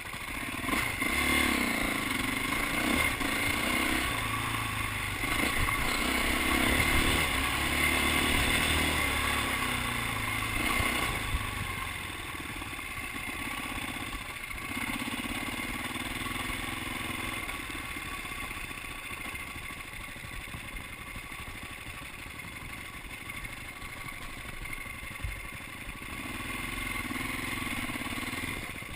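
Dirt bike engine running and revving, loudest in the first ten seconds or so, then fading and coming back up near the end.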